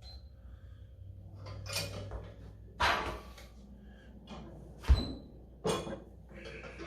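Clunks and knocks of weight plates and a loaded thick-bar rolling handle being moved and set down for weighing: a few separate handling sounds, the sharpest and loudest knock about five seconds in.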